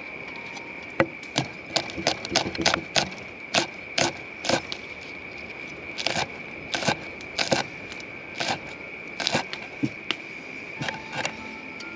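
A series of irregular sharp knocks and clicks, more than a dozen, over a steady high-pitched drone.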